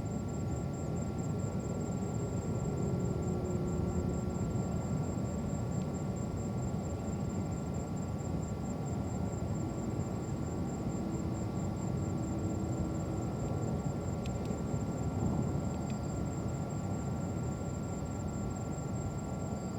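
Steady low rumble with a hiss of distant jet airliner noise across the airport, with a faint steady high whine over it.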